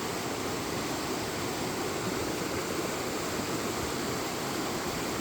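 Steady rush of a rain-swollen stream running high and fast after a heavy rainstorm.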